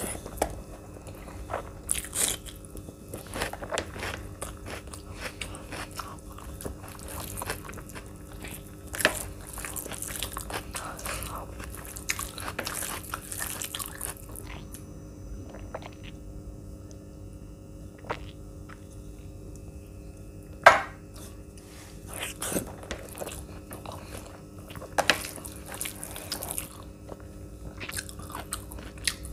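Close-miked eating of biryani and paneer curry by hand: chewing and biting with frequent short, sharp clicks and crunches. The loudest click comes about two-thirds of the way through.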